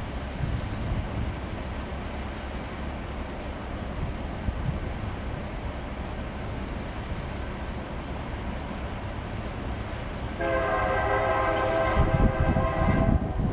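Diesel locomotive air horn sounding one blast of about three seconds, starting about ten seconds in. Before it there is a steady low rumble, which swells as the horn sounds, as the train draws near.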